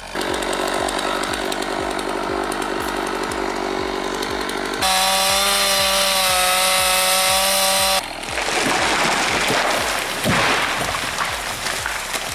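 Chainsaw engine running at high revs, in three stretches cut one after another; the middle stretch is a steady, high-pitched whine.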